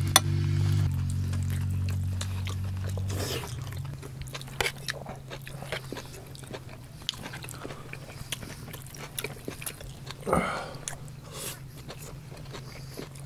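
Close-up eating sounds of men chewing and biting into cooked organ meats, with small clicks of knives cutting on plates, over a low held music drone that drops in level about three seconds in. One louder short sound stands out about ten seconds in.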